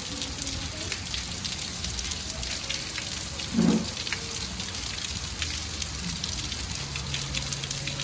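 Steady, calm rain falling and pattering on pavement and on the eave, with water pouring off the roof edge. A short low thump about three and a half seconds in is the loudest moment.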